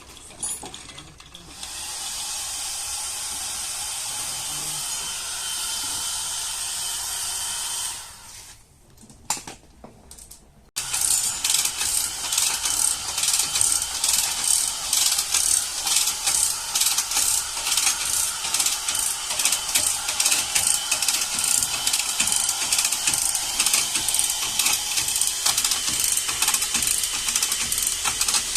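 A steady hiss for several seconds, then, after a short lull with a few clicks, a fast, rhythmic mechanical clatter from a workshop tool that keeps going without a break.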